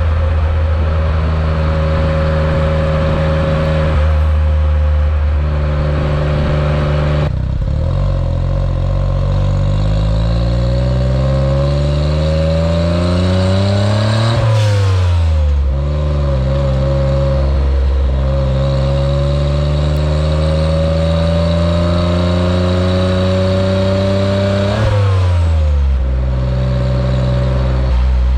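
Autozam AZ-1's small turbo three-cylinder engine, breathing through a straight downpipe with no catalytic converter, being driven: it holds a steady note, then pulls with a rising pitch for several seconds and drops sharply, as at a gear change, about halfway through. It climbs again and drops sharply once more a few seconds before the end, then settles back to a steady note.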